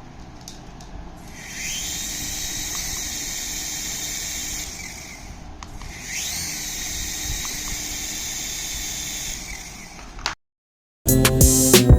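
Toy Airbus A380 jet-engine sound effect from a small speaker, played twice: each time a rising whine leads into a steady hiss that lasts about three seconds, over a faint low hum.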